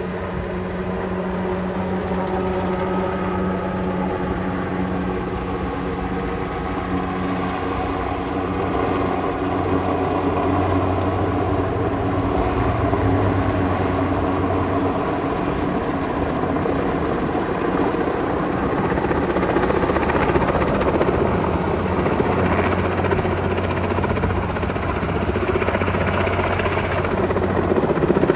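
Sikorsky H-34 helicopter's radial piston engine and rotors running steadily, gradually growing louder toward the end.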